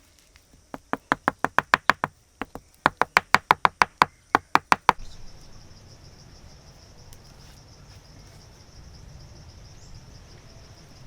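Rapid, even knocking, about seven strikes a second, in two runs with a short break, like wood being hammered or chopped. About five seconds in it gives way abruptly to crickets chirping steadily.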